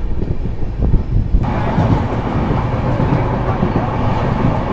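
Moving passenger train heard from an open coach doorway: a steady low rumble of wheels on the rails. About a second and a half in, the sound changes abruptly to a louder, hissier mix of wind and track noise.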